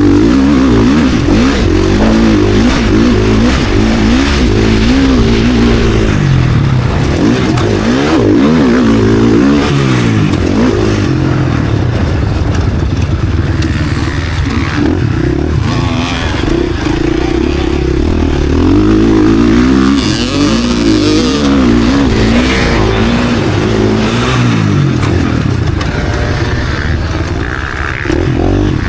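KTM SX-F four-stroke single-cylinder motocross bike engine at race pace, revving up and dropping back over and over as the throttle is opened and shut through the corners and jumps.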